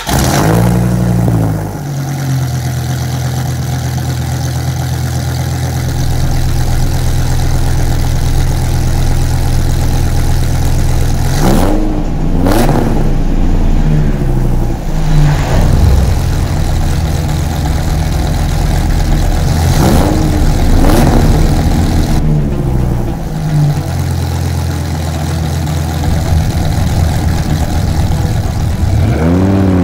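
Dodge Viper RT/10's V10 engine catching and idling, blipped in several quick revs, then revving up steadily near the end as the car pulls away.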